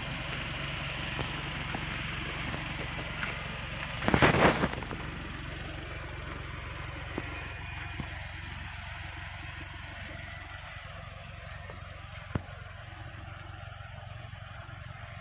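Honda S660's small turbocharged three-cylinder engine idling steadily, with one short loud burst about four seconds in and a sharp click later.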